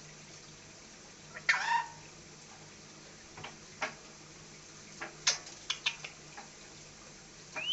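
Pet Indian parrot calling: a loud short falling squawk about a second and a half in, then scattered short sharp chirps and clicks, and a rising, wavering whistle starting near the end.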